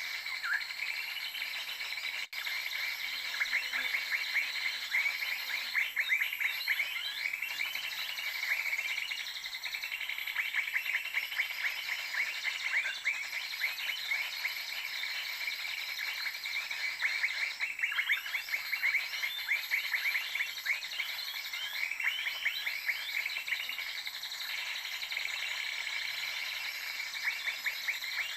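Small birds chirping in fast runs of short repeated notes over a steady high-pitched insect drone.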